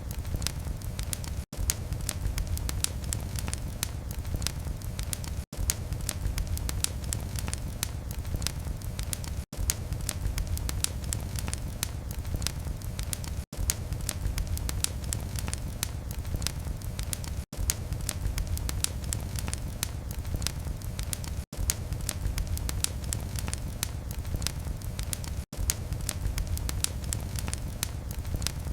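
Wood fire in a fireplace crackling: a dense run of small pops and snaps over a steady low rumble of the flames. The sound cuts out for an instant about every four seconds.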